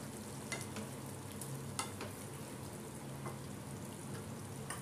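Paneer and onion gravy sizzling in a black kadai while a wooden spatula stirs it, with a few light clicks and scrapes of the spatula against the pan. A low steady hum runs underneath.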